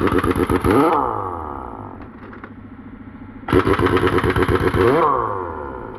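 Pneumatic impact wrench run in two bursts, one at the start and a longer one about three and a half seconds in, each a rapid hammering with a hiss of air that winds down in pitch as the trigger is let go.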